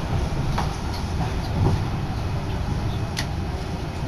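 Steady low running rumble of a moving commuter train heard from inside the carriage, with two sharp clicks, one about half a second in and one about three seconds in.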